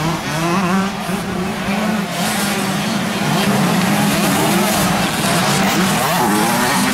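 Several 125cc two-stroke motocross bike engines racing, their pitches rising and falling as the riders work the throttle.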